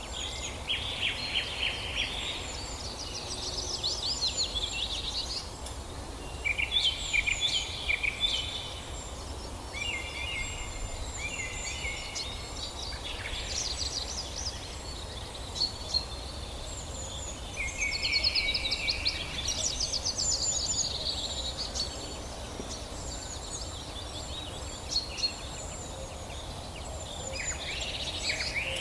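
Songbirds singing in a forest, with quick chirping and trilling phrases every few seconds, some overlapping. A low steady background rumble runs underneath.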